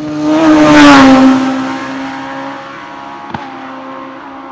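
A racing car passing close at full throttle on a hill-climb run: the engine note is loudest about a second in and drops in pitch as it goes by, then carries on steadily as it draws away. A sharp click about three seconds in.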